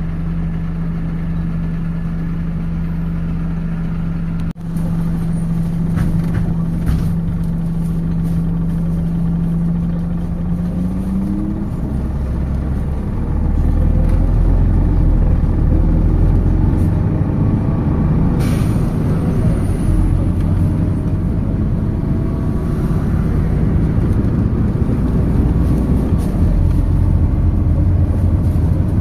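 MAZ 206 city bus heard from inside the cabin, its engine at a steady idle. About ten seconds in, the pitch starts to climb as the bus pulls away and accelerates, growing louder with a rising whine.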